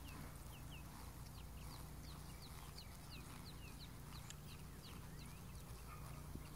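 Small birds chirping: a quick run of short, high, falling chirps, several a second, over a low steady rumble.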